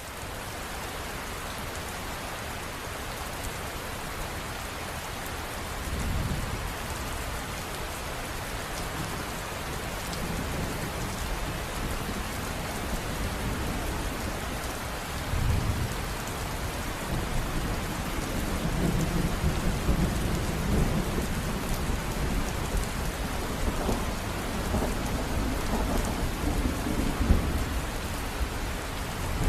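River water rushing steadily, with a deeper rumble that surges from about six seconds in and grows stronger toward the end.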